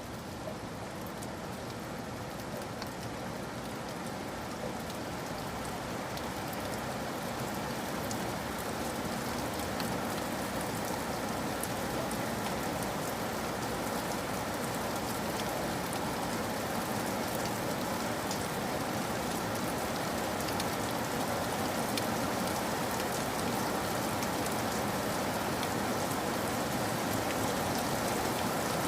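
Steady rain falling, with scattered sharp drop ticks in the hiss, slowly growing louder.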